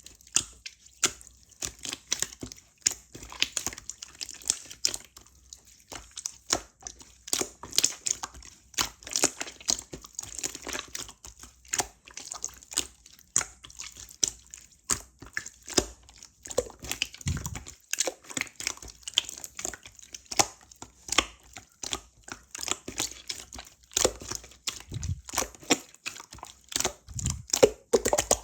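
Slime being squished, pressed and stretched by hand: a quick, irregular run of sticky clicks, snaps and crackles.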